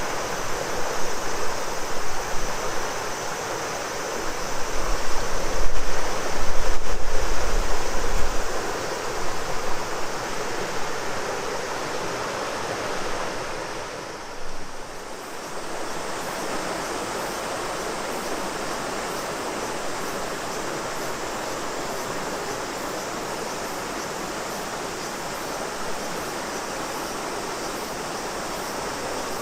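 Shimanto River flowing, a steady rush of water, with cicadas droning high above it. Wind buffets the microphone with low rumbles during the first eight seconds.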